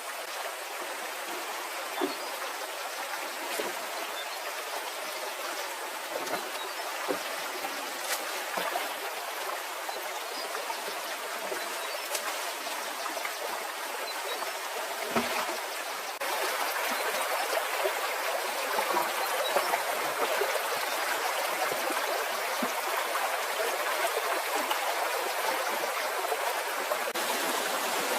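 Water of a stream flowing in a steady rush, with a few faint knocks; it turns louder abruptly a little past halfway.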